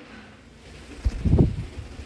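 Parrot's wings flapping as it takes flight: a short run of low, whooshing flutters about a second in.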